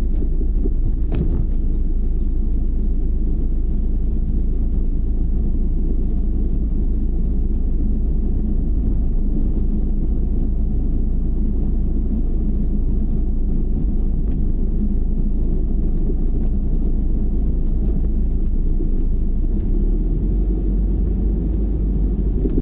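Car driving: a steady low rumble of road and engine noise, with a single click about a second in.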